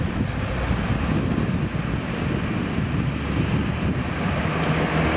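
Roadside traffic rumble from passing vehicles, with wind buffeting the microphone. Near the end, the steady drone of another engine comes in.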